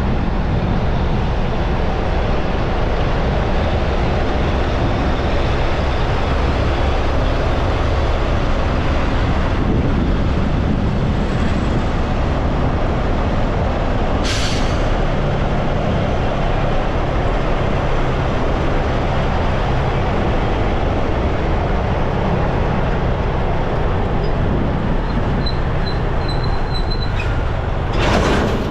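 Steady rush of wind and road noise while riding a motorbike through city traffic, with a sharp click about halfway through and another near the end.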